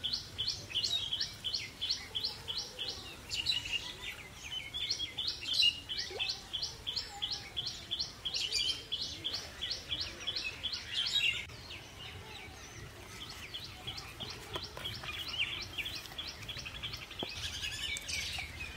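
A bird chirping in a fast, even series of short high notes, about three or four a second, with a brief pause about two-thirds of the way through before the series goes on.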